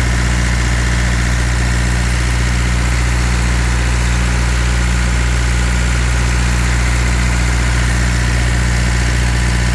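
Water truck's engine running at a steady idle, a constant low hum with no change in speed.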